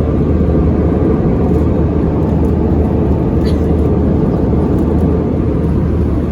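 Steady cabin noise inside an Airbus A320 climbing to altitude: an even rush of engine and airflow noise with a low hum underneath.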